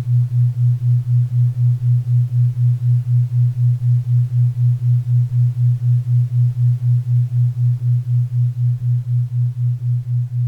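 4 Hz theta-wave beat tone: a low hum-like tone pulsing on and off about four times a second, over faint pink and brown noise. The pulses ease slightly near the end.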